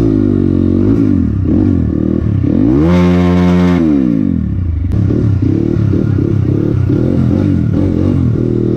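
Motorcycle engine running under way, its pitch rising and falling with the throttle, with one long rev up and back down about three seconds in.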